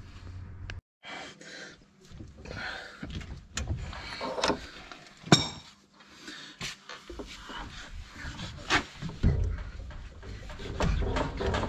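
Hand tools working on metal: scattered clinks and knocks, with one sharp ringing metallic strike about five seconds in, during tie rod end replacement on a van's front steering.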